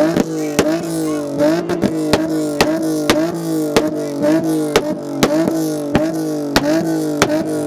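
Car engine held on a 2-step launch limiter, its pitch sagging and snapping back with sharp pops about three times a second.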